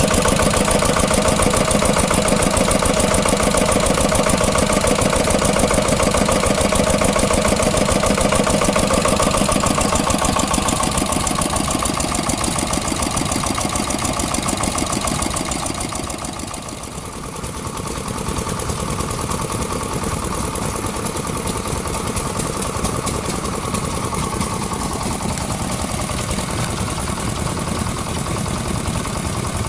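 Vintage engines running steadily at a fast, even beat. The sound dips about sixteen seconds in, then runs on with a changed character.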